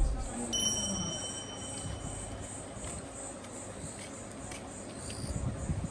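Insects chirping in a steady, high-pitched, evenly pulsing drone. A steady high tone sounds over it from about half a second in to nearly three seconds.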